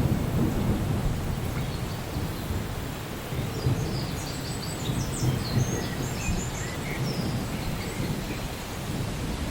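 Rainforest ambience: a low rumble, loudest at the start and easing off, under small birds chirping in quick high trills from about four seconds in, with a few lower chirps near the end.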